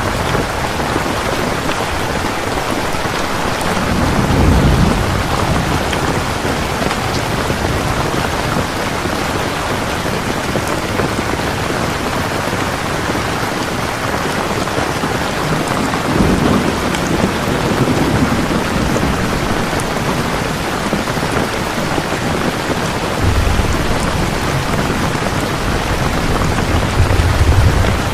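Steady, heavy rain falling, with low rolls of thunder swelling up three times: about four seconds in, around the middle, and again toward the end.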